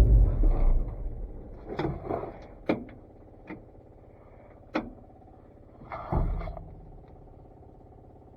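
Chevrolet C50 dump truck's engine running, its sound dropping away sharply within the first second. Scattered clunks and knocks follow, about six spread over the next few seconds.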